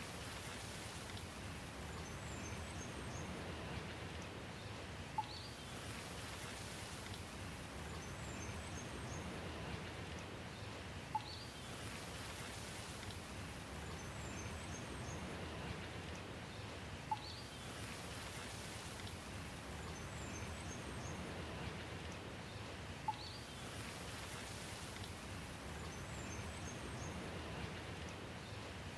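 Steady rain hiss with birds chirping. A short cluster of high bird chirps and a single sharp tick repeat about every six seconds, the same each time, as in a looped ambience recording.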